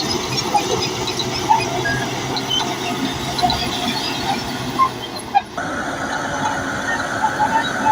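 Bulldozer at work: its diesel engine runs steadily under dense mechanical noise, and its steel tracks give off many short, high squeaks. About five and a half seconds in, the sound breaks off briefly, then carries on with a steadier high squeal.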